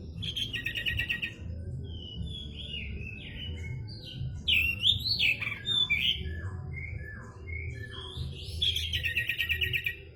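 Pied bushchat (decu) singing: a buzzy trill, then a varied run of quick whistles and down-slurred notes, then the trill again near the end.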